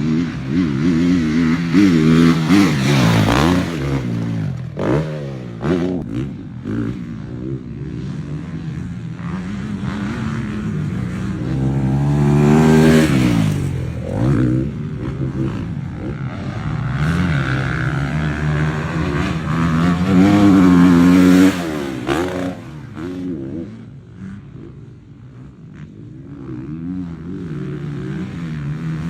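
Factory Honda 450 cc four-stroke motocross bike ridden hard, its single-cylinder engine revving up and dropping back again and again as the throttle opens and closes through the gears. It swells loudest three times, drops away about three-quarters through, and builds again near the end.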